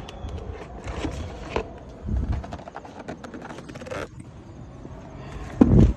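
Plastic rear back panel of a car seat being handled and worked loose: scattered clicks, rattles and short scrapes, with a heavier knock near the end.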